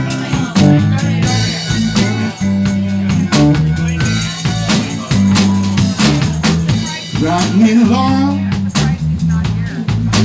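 Live band playing: a bass guitar line under a drum kit with regular snare and kick hits, with other instruments above.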